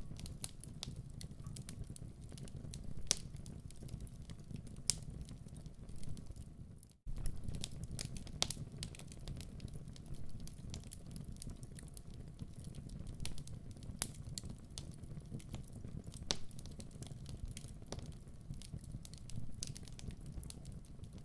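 Wood fire burning in a fireplace: a steady low rumble with irregular crackles and sharp pops. The sound drops out briefly and fades back in about seven seconds in.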